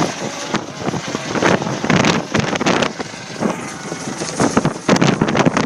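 Coast Guard rescue helicopter hovering over the ship, its rotor and downwash noise mixed with heavy wind buffeting the microphone in irregular gusts.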